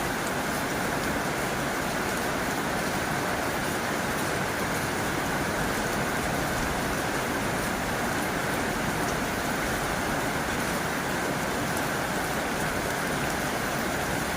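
Heavy rain falling on a tin roof, a steady, even patter.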